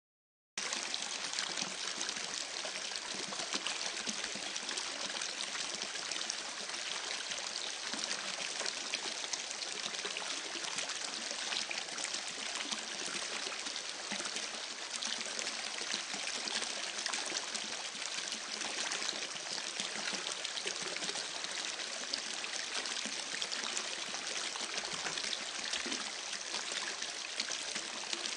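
Running water, a steady even rush of flow that cuts in suddenly about half a second in after dead silence.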